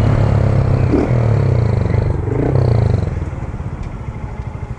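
Motorcycle engine running at raised revs through a loud exhaust, then dropping back about three seconds in to an evenly pulsing idle.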